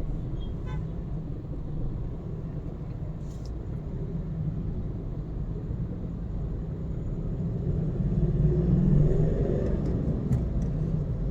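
Car driving, a steady rumble of engine and road noise that swells for a couple of seconds about eight seconds in.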